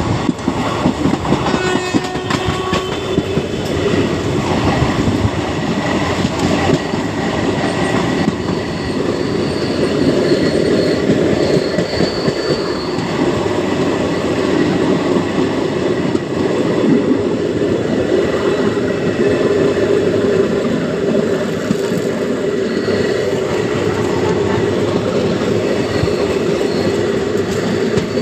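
Train running on track: a steady rumble with wheels clattering over rail joints, and faint high wheel squeals now and then.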